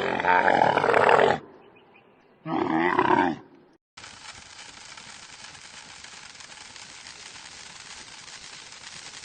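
Two loud, deep calls from a large animal, the first ending about a second and a half in, the second lasting about a second, followed from about four seconds in by a steady hiss.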